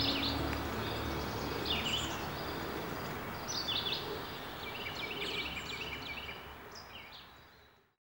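Songbirds chirping in short bursts every second or two over a steady outdoor background hiss, all fading out near the end.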